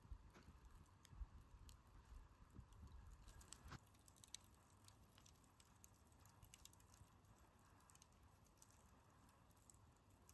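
Wood campfire burning low near its end, giving faint, irregular small crackles and ticks.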